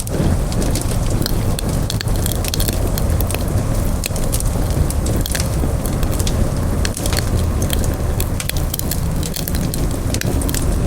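Wood campfire burning, a steady low rush of flame with frequent sharp crackles and pops from the burning wood.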